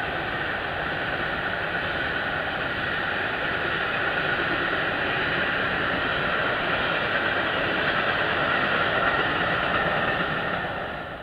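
Freight train wagons rolling past on a curved embankment: a steady wheel-on-rail rolling noise that fades away near the end as the last wagons pass.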